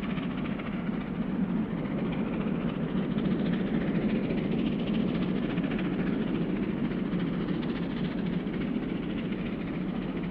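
Train hauled by R-class steam locomotive R761 running: a steady rumble that swells a few seconds in and then eases a little.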